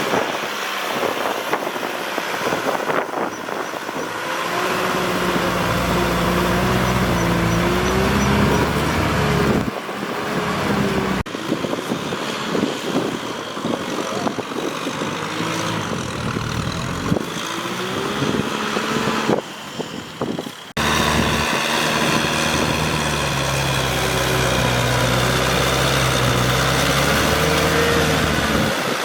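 Kubota tractor's diesel engine working as it plows, its pitch rising and falling with the throttle over a rough, noisy wash, cut off abruptly twice.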